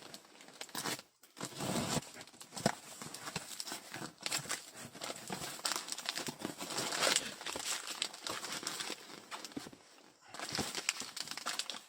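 Parcel packaging being handled: plastic and cardboard rustling and crinkling, with scattered knocks and clicks as boxes are moved.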